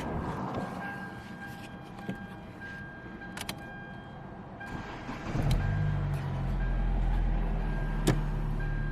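A 2014 Hyundai Elantra's engine starts about five seconds in and settles into a steady idle, after a loose ignition-switch connector was reseated to cure its no-crank, no-start fault. Before that, a faint beep sounds on and off, with a few sharp clicks.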